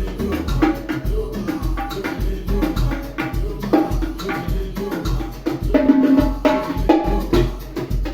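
Percussion-driven music: a beat with a steady, repeating bass pulse and hand-played conga drum strokes over it.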